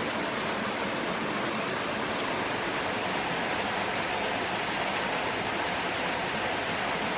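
A steady, unchanging rushing noise, spread evenly from low to high pitch.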